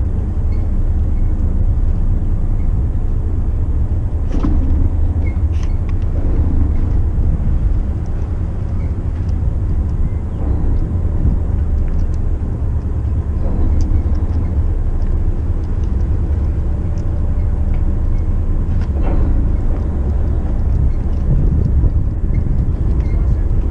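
Motor yacht under way: a steady low engine rumble, with a few faint short knocks scattered through it.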